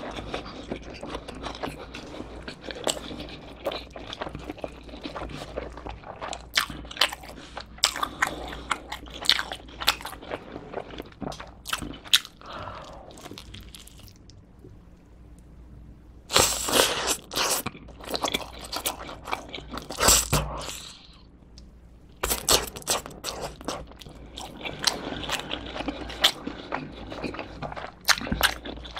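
Close-miked chewing of pepperoni cheese pizza: crunching of the baked crust with mouth sounds, in a run of small crackling crunches. It eases off for a moment about halfway, then comes back loudest with a fresh bite.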